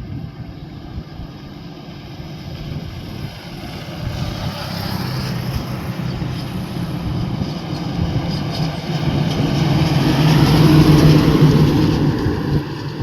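Heavy hauler truck's engine drawing near. Its hum grows louder from about four seconds in, is loudest shortly before the end, then begins to fade as it passes.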